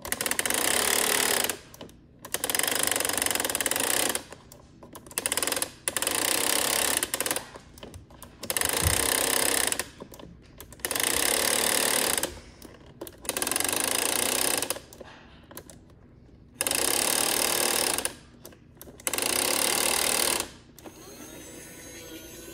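Small toy motor and gears running in about nine short bursts of one to two seconds each, starting and stopping with brief pauses between them.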